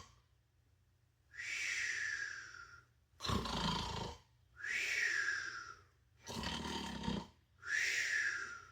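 A man imitating snoring with his voice: rough, rasping breaths in alternating with breathy breaths out that slide down in pitch like a whistle, repeating about every three seconds.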